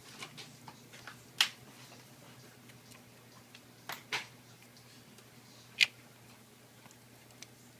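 Small sharp clicks and taps from screws and a Phillips screwdriver being handled on a laptop's aluminium case during reassembly. They are irregular and sparse: three louder clicks about a second and a half in, about four seconds in and near six seconds, with fainter ticks between.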